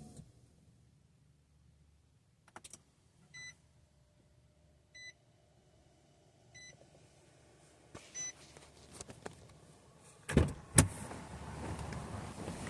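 Nissan Titan XD's dash chime beeping four times at an even pace while the Cummins 5.0-litre V8 turbo diesel is readied for a cold start, then the engine cranking with two loud bursts about ten seconds in and catching into a steady low run.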